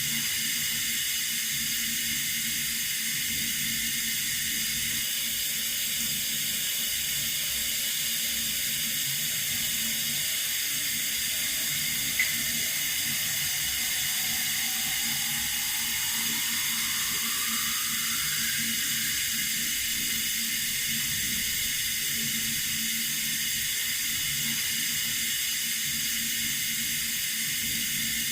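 Running water: a steady, even hiss, with a single brief click about twelve seconds in.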